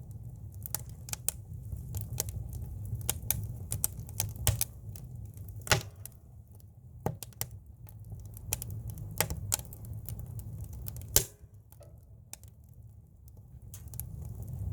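Firewood burning in a campfire, crackling with irregular sharp pops and snaps over a low steady rumble. The crackling thins out and quietens about eleven seconds in.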